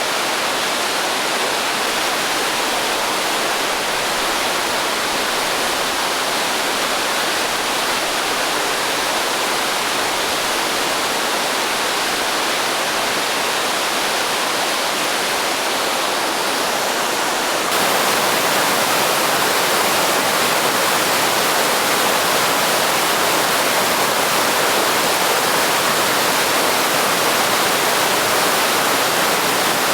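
Naena Falls, a large waterfall swollen with spring snowmelt, pouring in a steady, dense rush of water, growing suddenly louder about two-thirds of the way through.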